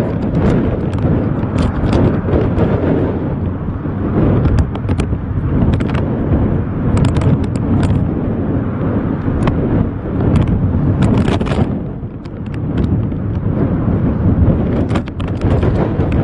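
Strong storm wind buffeting the microphone: a loud, gusty rumble full of crackling pops, easing briefly about twelve seconds in.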